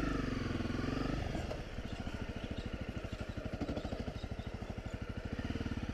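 Honda CRF250 Rally's single-cylinder engine, heard from on the bike while riding off along a dirt track. The revs ease down over the first second, then the engine runs at low, even revs with a rhythmic beat.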